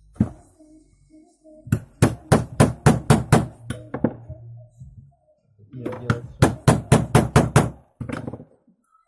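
Hammer tapping rapidly, two quick runs of seven or eight blows each with a single blow before and after, driving a new rubber dust boot onto a steering tie rod end.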